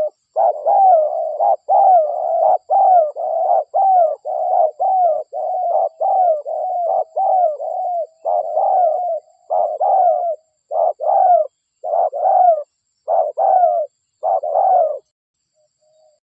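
Spotted dove (derkuku) cooing in a quick run of short, slightly falling coos, about one and a half a second, breaking off near the end; a recorded lure call for attracting wild doves.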